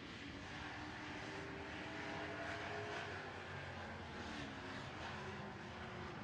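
Super Trucks racing on a dirt oval: several engines running together in a steady drone whose pitch shifts up and down as the trucks go around the track.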